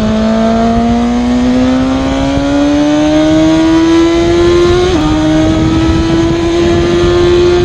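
BMW G650GS motorcycle under way, its pitch rising steadily as it accelerates. The pitch dips sharply once about five seconds in, like a gear change, then holds level.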